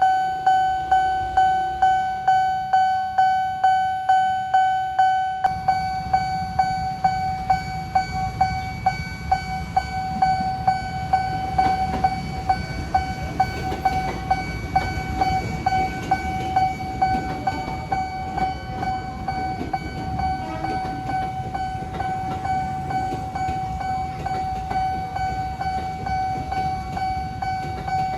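Nippon Signal level-crossing warning bell ringing a steady electronic ding about twice a second. From about five seconds in, a train's rumble joins it as the train passes the crossing.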